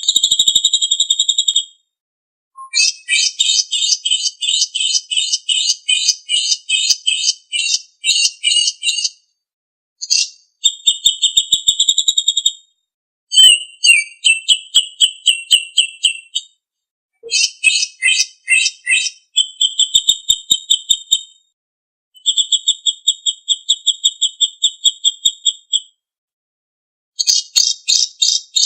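Songbird song as used in a masteran training recording: rapid, high-pitched trills and buzzy rattles. They come in bursts of a few seconds, broken by short pauses.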